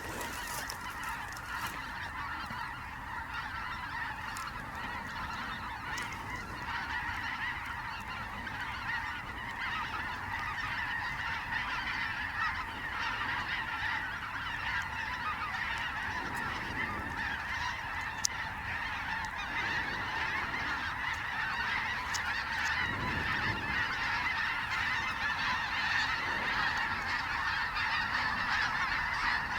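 A large flock of snow geese calling nonstop, a dense mass of overlapping high honks that grows slightly louder toward the end.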